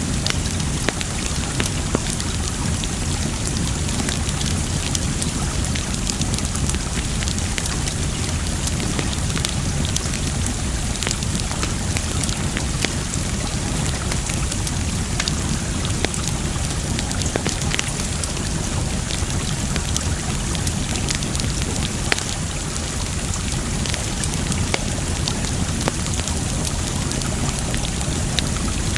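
Wood fire crackling, with frequent small irregular pops and snaps, over a steady wash of water.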